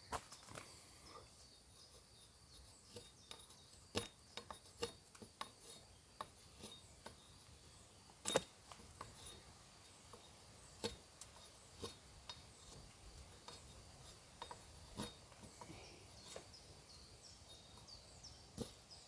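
Ontario Bushcraft machete blade slicing and carving a piece of wood in short, irregular strokes: faint scrapes and clicks, with one sharper crack about eight seconds in.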